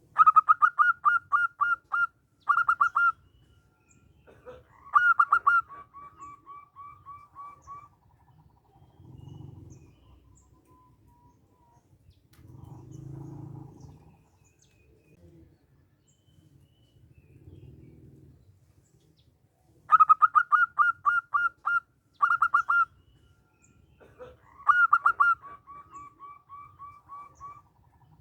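Zebra dove (perkutut) singing. Twice it gives its phrase: a quick run of sharp, evenly spaced notes, a short break, then another run trailing off into a string of softer, lower notes. Soft low sounds come in the gaps between phrases.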